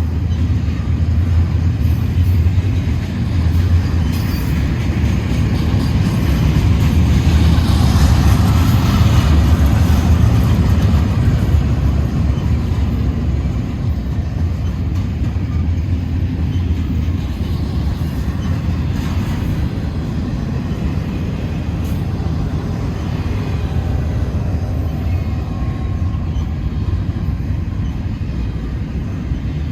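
Freight train of intermodal double-stack cars rolling past: a steady low rumble of wheels on rail, with louder rattling and clatter swelling about eight to eleven seconds in.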